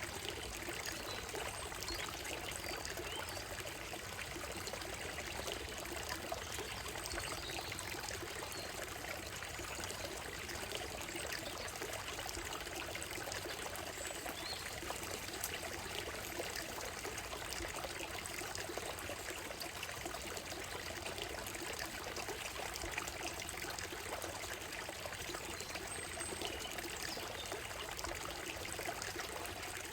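Shallow stream running over a gravel and stone bed: a steady, even babble and trickle of water. A few faint, short high chirps from birds come through now and then.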